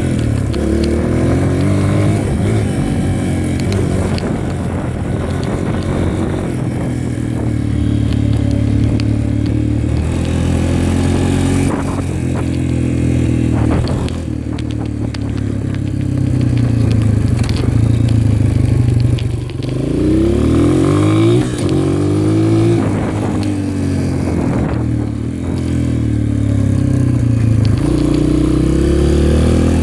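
Dirt bike engine running under way, its pitch mostly steady, dropping and then climbing sharply about twenty seconds in and rising again near the end as the throttle is opened.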